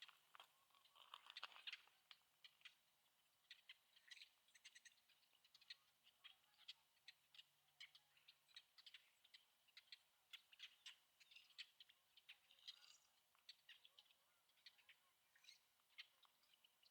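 Faint, quick high chirps and ticks, scattered irregularly several times a second over a quiet background hiss: small birds calling in the dawn stillness.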